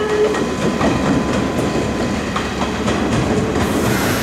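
Electric commuter trains running over the rails and points: a steady rolling rumble of wheels with a few faint clicks over rail joints. A steady humming tone stops just after the start.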